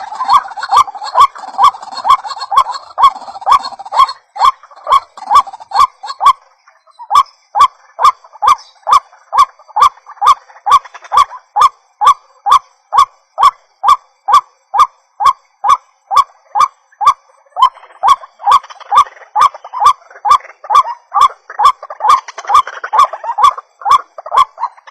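White-breasted waterhen (ruak-ruak) calling: a loud, steady run of short repeated notes, about two a second, with a brief break about six and a half seconds in. A fainter chorus of overlapping calls runs underneath at the start and again over the last several seconds.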